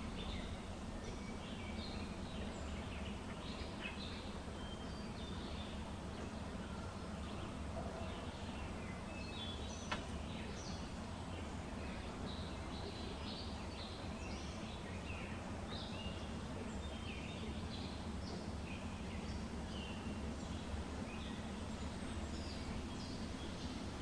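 Small birds chirping continually in short, high calls over a steady low background rumble, with one sharp click about ten seconds in.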